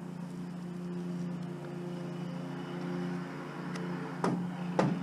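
Steady hum of an idling vehicle engine, with a few sharp clicks about four and five seconds in.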